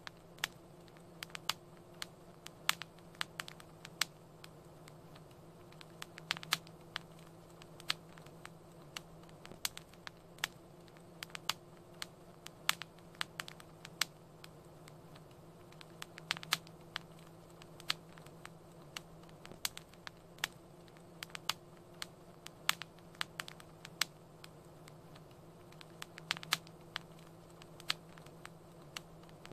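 Wood fire crackling in a fireplace: irregular sharp pops and snaps, often in quick clusters, over a soft steady hiss and low hum.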